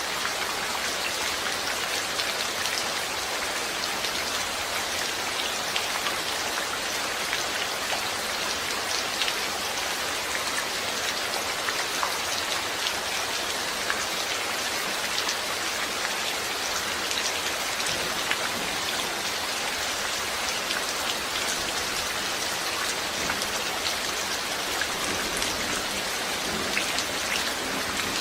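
Steady rain falling, a dense even hiss with many separate drops ticking on a surface.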